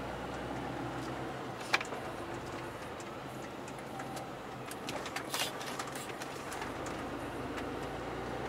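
Steady low engine and road hum inside a Mercedes truck's cab while driving. There is one sharp click about two seconds in, and a short clatter of clicks around five seconds in.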